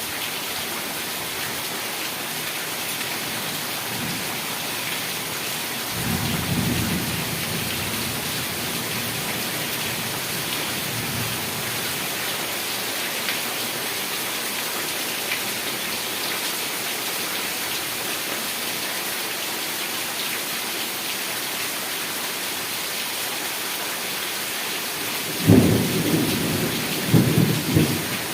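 Heavy rain falling in a steady hiss, with low thunder rumbles about six seconds in and again near the end, the last one the loudest.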